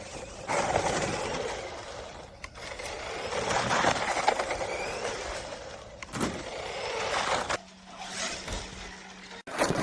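A 1:14-scale electric RC truck driving over rough ground, its running noise mixed with scraping. It comes in several short stretches that start and stop suddenly.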